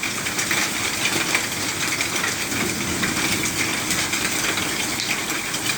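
Hail and heavy rain pelting down: a dense, continuous clatter of small hailstone hits over a steady hiss of rain.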